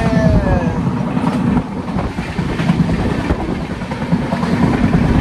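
Passenger train running: a loud, steady rumble of the coach on the rails, heard from the vestibule by the door.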